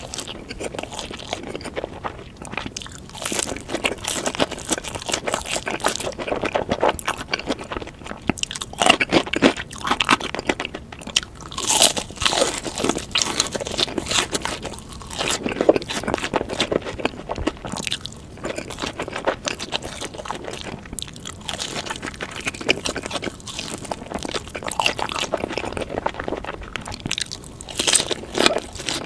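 Close-miked crunching and chewing of sweet Korean fried chicken, a dense, irregular run of crisp bites and crackles, played at double speed.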